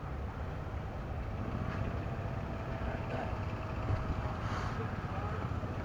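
An engine running steadily in the low range.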